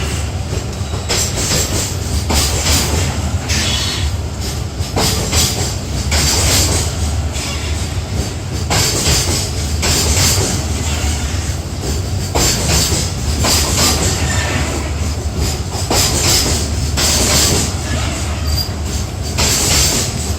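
Freight train rolling past: a steady low rumble of wagons, with a burst of wheel clatter and hiss about once a second as the wheelsets cross the rail joints.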